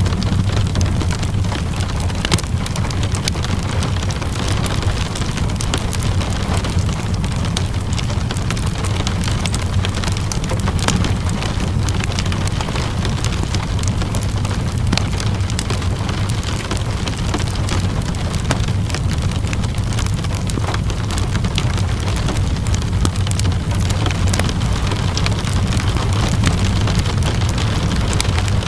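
Steady rain together with a crackling wood fire: an even hiss over a constant low rumble, dotted with many sharp crackles and pops.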